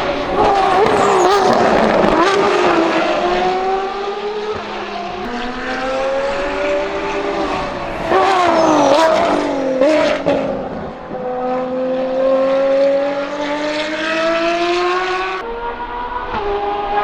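Ferrari FXX K Evo's V12 engine at high revs on track. The pitch climbs through gear changes, with a jagged run of throttle blips as the revs drop on downshifts about halfway through, then a long rise again under acceleration.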